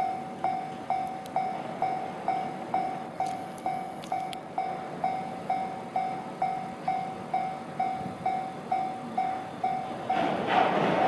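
Railway level-crossing warning bell ringing steadily, one tone struck about twice a second. Near the end a train's rumbling noise swells in under it.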